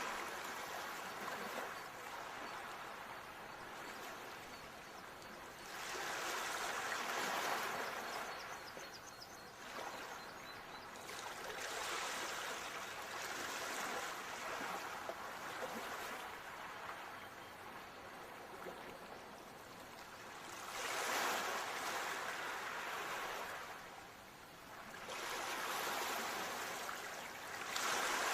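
Ocean waves washing onto a shore, the surf swelling and ebbing in surges every few seconds.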